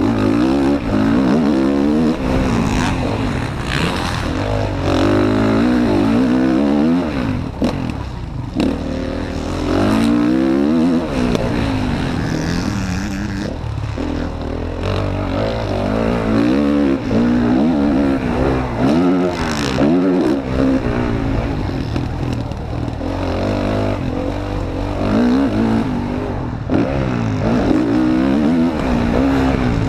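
Motocross bike engine heard from onboard, revving hard and dropping back again and again as the throttle is opened and closed through the track, with wind and track noise beneath.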